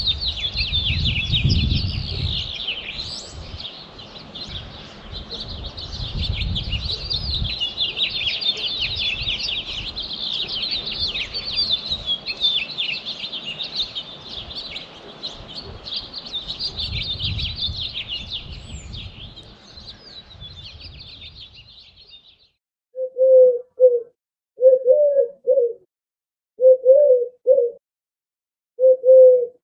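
A morning chorus of small songbirds chirping and singing densely, with some low rumbles in the first few seconds; it stops abruptly about two-thirds of the way in. Then a mourning dove coos four times, low and mellow, with pauses between the calls: the timer's alarm that the three minutes are up.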